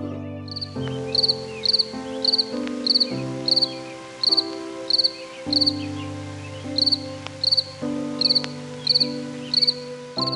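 A cricket chirping in short pulsed chirps, about three every two seconds, over background music of slow sustained chords.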